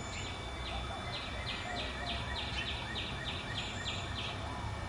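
A songbird singing a run of about a dozen down-slurred whistled notes, about three to four a second, over a steady low background rumble.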